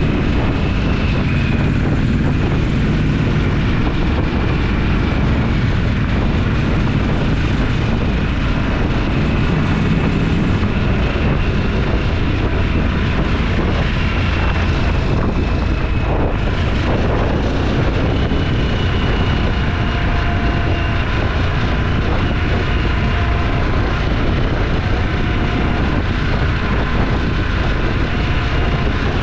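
Motorcycle engine running steadily under way, a dense low rumble that holds even without a break.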